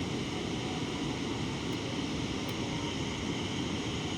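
Steady rushing roar of a waterfall, an even wash of falling water.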